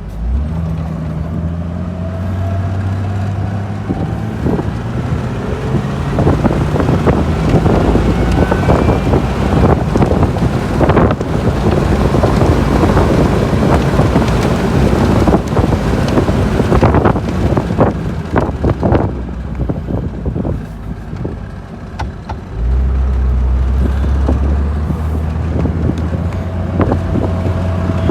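A 2000 Jeep Wrangler under way: engine running with a faint rising whine in the first few seconds as it pulls away, then loud wind and road noise with rattles. The noise eases about 20 seconds in, and then a deep steady engine drone comes in.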